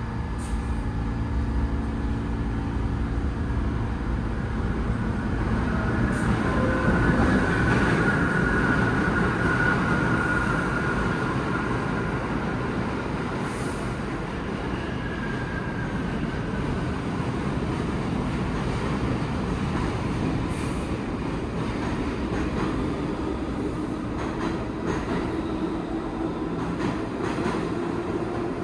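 New York City subway train running through the station platform with a steady rumble and wheel noise. A high wheel squeal rings for several seconds in the middle, where the train is loudest.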